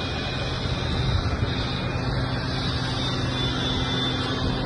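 An engine running steadily with a low hum and a broad even noise over it.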